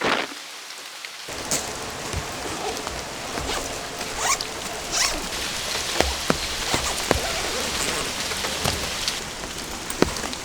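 Rain falling steadily, with many single drops tapping sharply close by.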